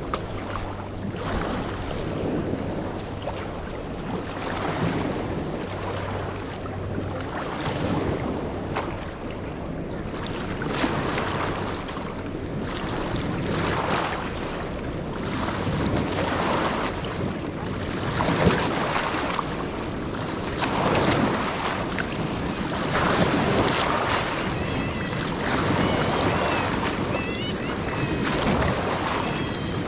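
River waves lapping and splashing against the shore in repeated surges every second or two, with wind on the microphone. A low steady hum sits underneath for roughly the first half, and a few faint high chirps come near the end.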